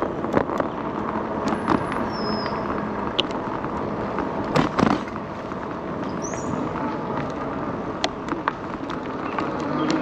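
Wind and rolling noise on a moving bike-mounted camera during an electric-bike ride, with scattered sharp clicks and knocks, the loudest a cluster a little before the middle.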